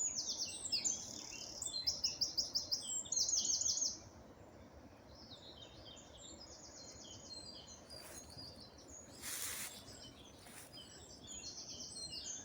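Woodland birdsong, several high chirping and trilling phrases, loudest in the first four seconds with rapid repeated notes and quieter after. A brief hiss of noise about nine seconds in.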